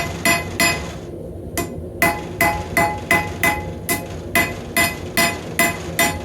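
Hammer striking hot rebar steel on an anvil, forging a knife blade, with the anvil ringing at each blow. The strikes come steadily at about three a second, with a short pause about a second in.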